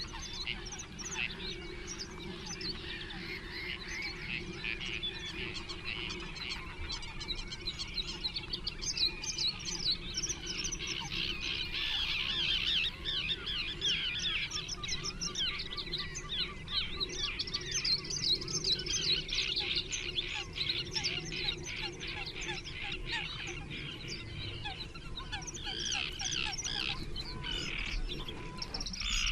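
Small songbirds singing together, a dense, continuous run of quick high chirps and trills, busiest in the middle, over a steady low background hum.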